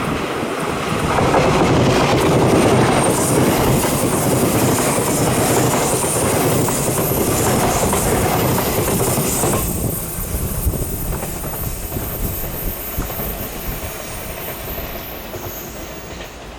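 TRA TEMU2000 Puyuma tilting express train passing on the rails, a loud steady rumble with a thin high whine above it. About ten seconds in the sound drops off sharply and then fades away.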